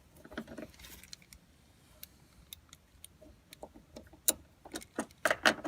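Metal hand tools clinking and clicking against the door hinge hardware: scattered sharp clicks, coming faster and louder over the last second and a half.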